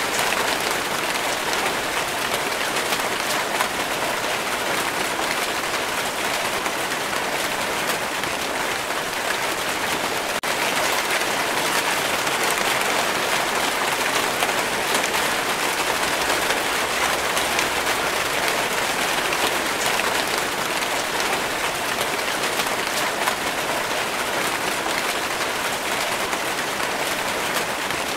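Steady rain falling, a dense, even patter of raindrops, with a split-second dip in level about ten seconds in.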